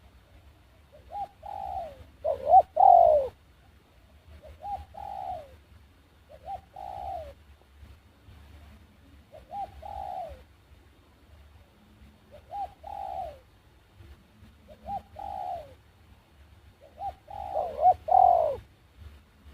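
A dove cooing: short phrases of two or three falling coo notes, repeated about every two to three seconds, about eight times. The phrases about 3 s in and near the end are the loudest.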